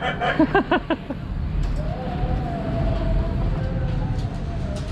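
Steady low rumble of outdoor background noise. In the first second there is a quick run of about five short pitched calls, and a faint held tone runs through the middle.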